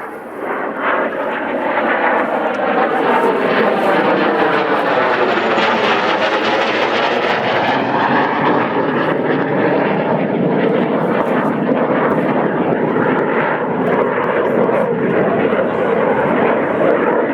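Airplane flying past at an air show, its engine noise building up loudly over the first couple of seconds and then staying loud and steady, with the tone sweeping in pitch as it passes.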